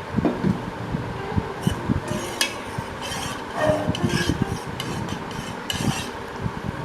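A spoon stirring hot coffee into chocolate milk in a pan, with repeated short knocks and scrapes against the pan.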